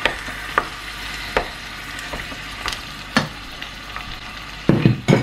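Minced meat and garlic sizzling as they fry in a stainless steel saucepan, with a wooden spoon stirring and clicking against the pan several times; a few louder knocks near the end.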